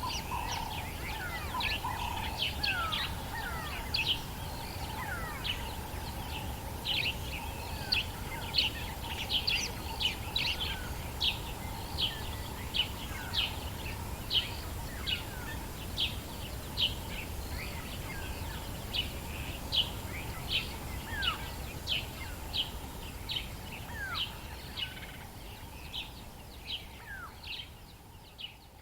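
Birds calling in the African bush at dawn. One bird repeats short, sharp chirps about three times every two seconds, with occasional falling whistles from others, over a low steady rumble. The sound fades out near the end.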